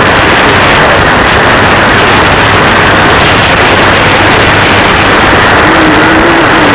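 Shortwave receiver static from an SDRplay RSP1: a loud, steady hiss of noise fills the audio, with a weak station at most faintly audible underneath.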